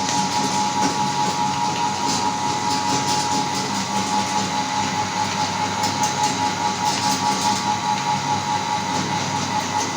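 Electric meat grinder running steadily with a constant motor whine.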